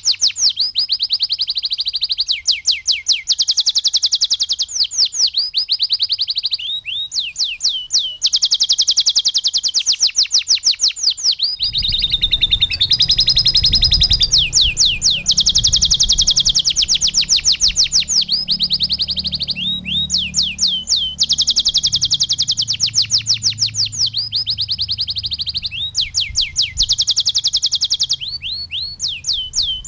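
Domestic canary singing continuously in fast rolling trills, rapid runs of repeated high notes that switch to a new phrase every second or two. A low hum sits under the song for several seconds in the middle.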